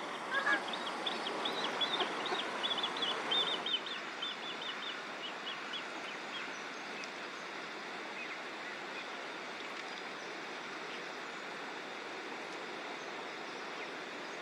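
A small songbird singing a quick run of short, high chirping notes that fades out after about six seconds, over a steady outdoor background rush.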